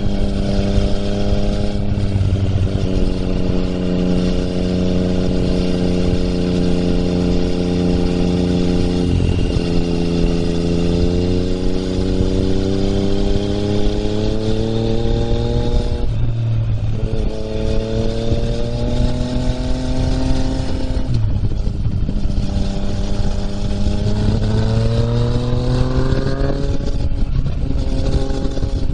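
Yamaha MT-09's three-cylinder engine through an Akrapovič exhaust, under power while riding: the engine note climbs steadily and drops with an upshift about a third of the way in, again just past halfway and about three-quarters in, then climbs again.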